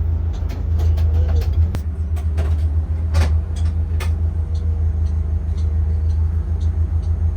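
Inside a 2023 Blue Bird Vision school bus with its Ford 7.3-litre V8 running: a steady low rumble, with scattered clicks and knocks, the loudest about three and four seconds in.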